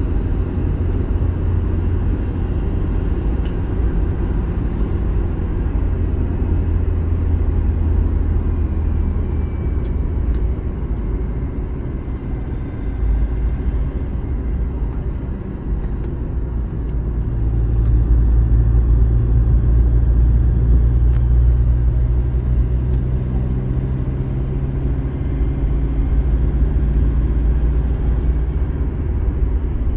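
Car engine and road noise while driving. The engine note shifts, rising and getting louder about halfway through, then eases back.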